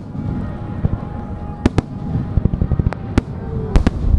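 Aerial firework shells bursting with sharp bangs over a continuous low rumble. The bangs are scattered at first, with a pair about a second and a half in, then several come in quick succession near the end.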